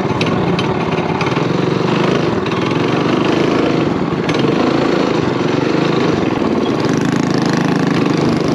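Mini bike's small single-cylinder four-stroke engine running steadily at a constant speed, with a few light clicks or rattles in the first couple of seconds.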